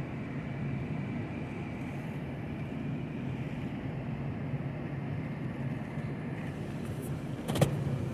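Freight train's steady low rumble, with one sharp click near the end.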